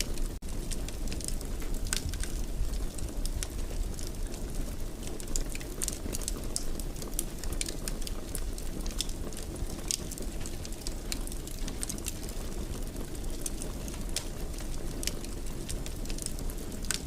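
Fireplace wood fire burning: a steady low rumble with frequent small crackles and pops scattered irregularly through it. The sound briefly drops out just under half a second in.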